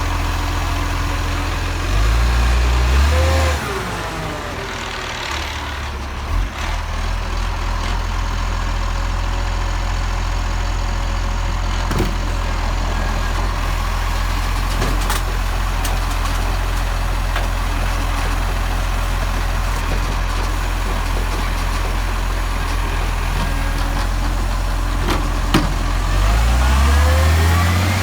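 Garbage truck's diesel engine running steadily, revving up with rising pitch about two seconds in and again near the end. A few sharp clicks now and then.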